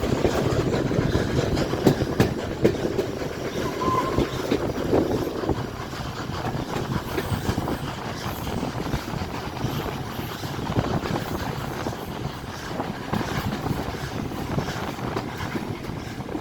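A steam-hauled passenger train on the move, heard from aboard: wheels and carriages rumbling and clattering over the rails, a little louder in the first few seconds, with a brief high squeak about four seconds in.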